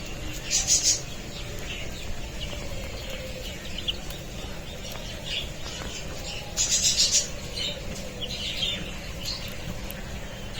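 Chickens calling, with scattered short high-pitched calls and two louder squawking outbursts: one about half a second in and one around seven seconds in.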